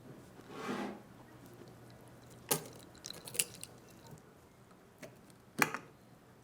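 Small parts handled during a pistol restoration: a brief rubbing or wiping sound, then a handful of sharp clicks and knocks, the last and loudest a little before the end.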